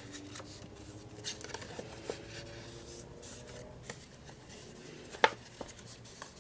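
Paper and cardstock being handled and rubbed against a tabletop, with scattered light taps and one sharp click a little past five seconds in.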